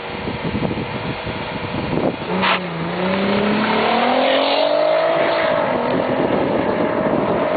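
VW Golf V R32's 3.2-litre VR6 held at steady revs, then accelerating hard from about two seconds in with a fast-rising engine note. The note dips briefly about five seconds in, then climbs again as the car passes and pulls away.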